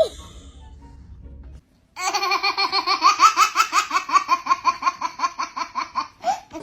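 A long run of rapid laughter, about ten quick pulses a second and slowly falling in pitch, starting suddenly about two seconds in.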